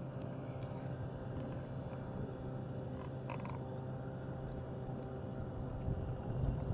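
Small boat engine running steadily with a constant low hum, and a few faint clicks about three seconds in.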